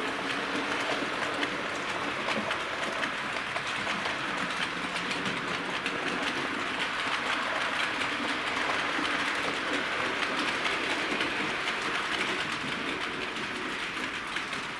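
Bachmann OO-gauge A1 Pacific model locomotive running along model railway track: a steady whirring from its motor and wheels, with fast, fine clicking of the wheels over the rails.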